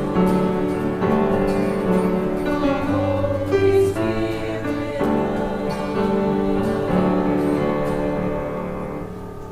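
A church choir singing with instrumental accompaniment, sustained chords that fade away near the end.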